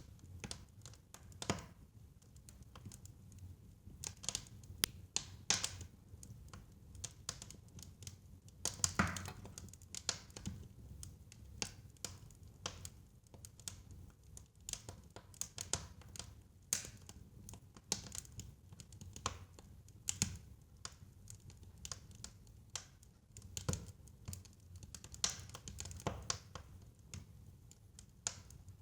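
Wood fire crackling in a fireplace: irregular sharp pops and snaps, a few louder ones, over a faint low rumble.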